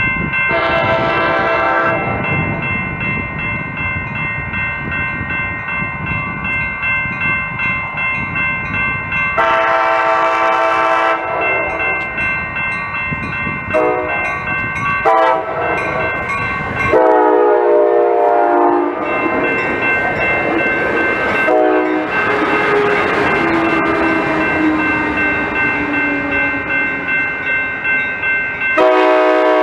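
Locomotive air horn sounding a series of blasts over the rumble of a passing train. Two of the blasts slide down in pitch as the train goes by, and a steady high ringing runs underneath.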